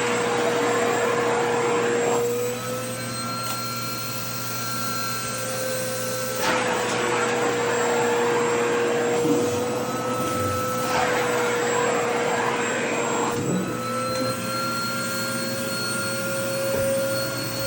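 Vacuum cleaner running steadily with a motor whine, its rush of air swelling and fading three times as skirt fabric is drawn against the nozzle, the whine rising slightly when the airflow drops.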